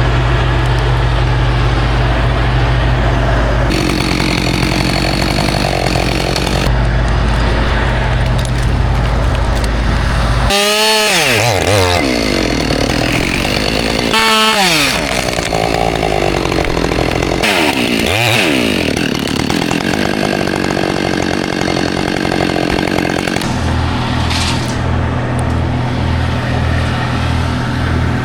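Chainsaw running loud over a steady low engine hum, its pitch falling away three times as the throttle is let off.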